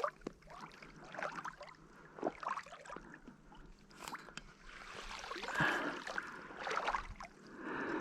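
Water sloshing and splashing irregularly around a wader's legs as someone wades through marsh water, with small splashes and drips, louder about two-thirds of the way through.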